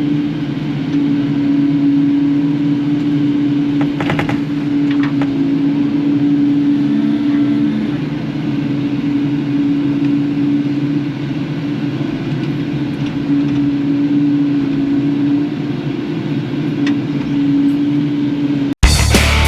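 Kubota KX080-4 excavator's diesel engine running steadily with a constant hum, and a couple of metal clanks about four and five seconds in. Loud rock music cuts in suddenly near the end.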